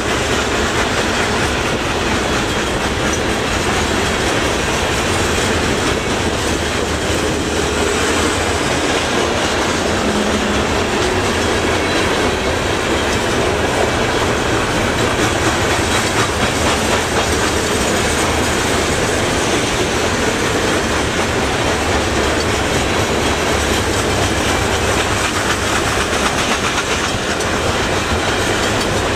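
Covered grain hopper cars of a freight train rolling past in a steady, loud rumble, their steel wheels clacking over the rail joints.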